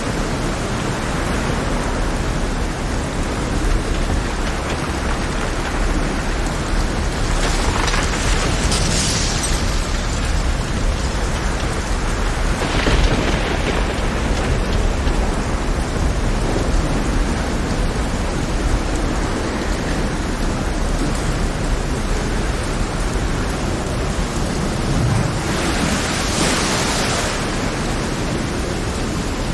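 Heavy rain over a rough sea: a steady hiss of rain with a deep low rumble underneath. Three louder surges swell up and fade, about eight seconds in, near the middle and near the end.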